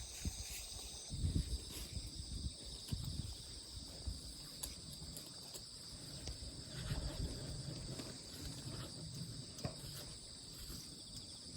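A steady chorus of insects, a continuous high chirring trill, with irregular soft low thumps and rumbles beneath it.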